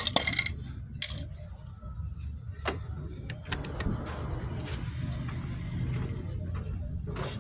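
Metal parts and tools clinking and clattering: a ringing clink at the start, sharp clicks about one and three seconds in, then a stretch of scraping. A steady low hum runs underneath.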